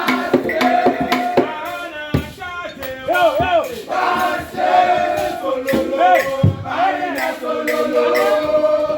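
A group of voices singing a chant together, with their pitch gliding up and down, backed by sharp hand-percussion strikes that are densest in the first second or so.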